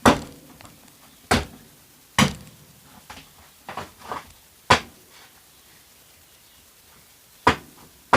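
A blade stabbing into a plastic container: a run of sharp knocks at uneven intervals, with a pause of a couple of seconds before the last strikes.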